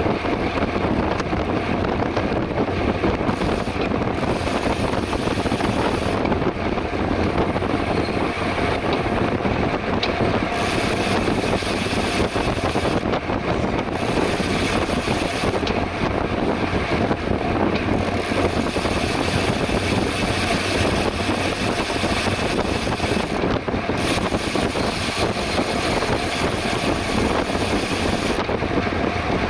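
Steady wind rushing over the microphone of a camera carried on a moving bicycle, with road noise from the ride.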